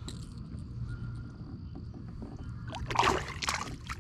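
A fishing kayak on a pond: a brief rushing, splash-like swish about three seconds in, over a steady low hum.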